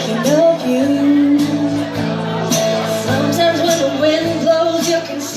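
Live country band playing the song's opening, a gliding melody line over sustained bass notes and a steady beat.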